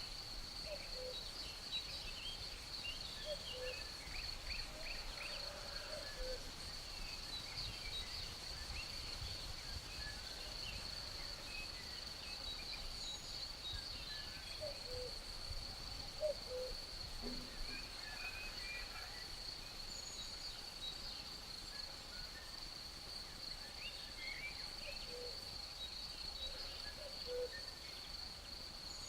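Crickets trilling steadily and high over a faint breeze, while a cuckoo calls its falling two-note cu-coo in short runs near the start, the middle and the end, and small songbirds chirp here and there.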